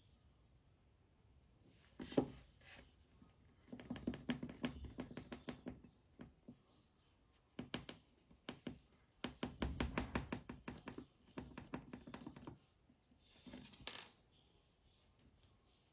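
Modelling clay being mixed and squished by hand, giving spells of quick small clicks and pops, the busiest runs about four seconds in and again from about nine to twelve seconds.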